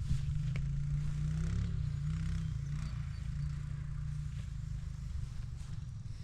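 Tractor engine idling: a steady low, pulsing rumble.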